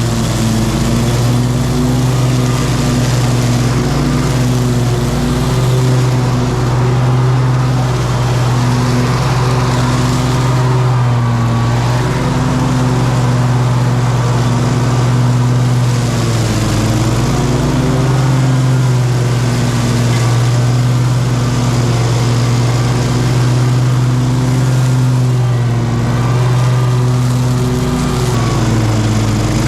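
Small petrol engine of lawn-care equipment running steadily at high speed, dipping briefly in pitch about halfway through and again near the end.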